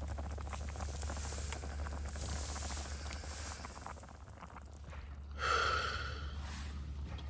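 Campfire crackling with small scattered snaps over a steady low hum. About five and a half seconds in, a person gives one short, breathy exhale or gasp.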